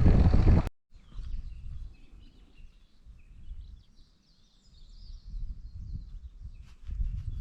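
Rushing wind noise on the microphone cuts off abruptly under a second in, followed by birds chirping in repeated short phrases over a faint low wind rumble.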